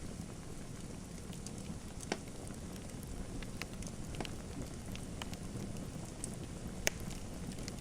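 Wood fire crackling in a fireplace: irregular sharp pops and snaps over a steady low rumble, with the loudest pop a little before the end.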